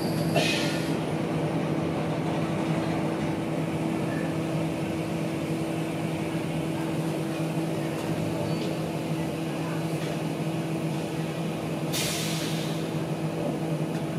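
Passenger train heard from inside the carriage: a steady hum from the train's machinery, broken by two short hisses of air, one right at the start and one about twelve seconds in.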